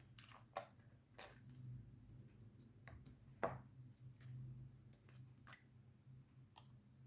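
Near silence with a few faint, scattered clicks and taps, the loudest about three and a half seconds in: small plastic drill jars and bags of diamond painting drills being handled.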